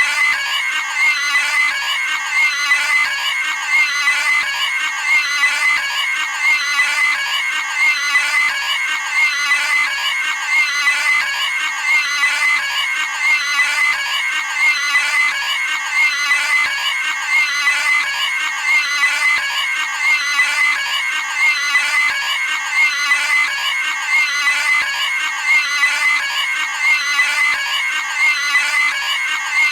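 Cartoon pig screaming sound effect: a high-pitched pig squeal, repeated over and over in a tight loop without a break.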